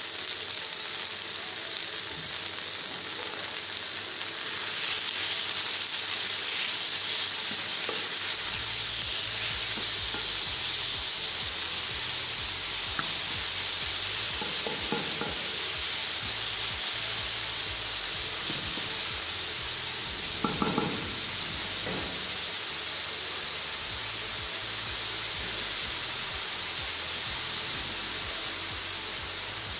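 Sliced chicken breast and onions sizzling in hot oil in a non-stick pan, a steady frying hiss. The spatula stirs and scrapes through them a couple of times around the middle.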